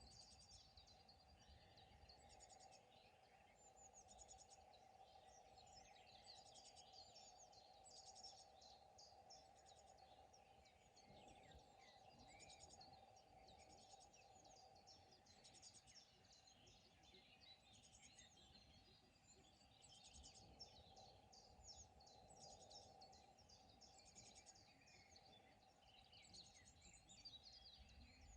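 Faint birdsong: several birds chirping and trilling almost without pause, over a steady faint hum.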